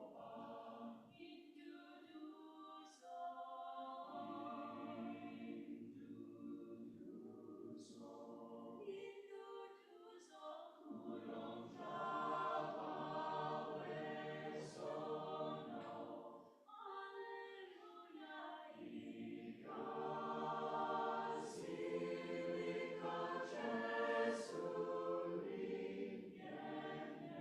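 A choir singing a cappella in sustained phrases, with short breaks between phrases.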